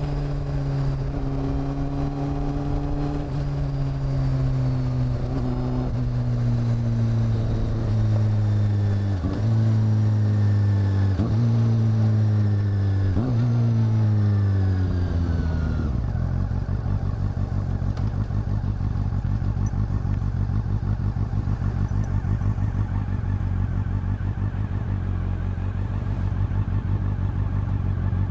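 Honda CB400 Super Four's inline-four engine and exhaust as the motorcycle slows: the engine note falls in several steps with brief breaks between them. About sixteen seconds in it settles to a steady, even idle.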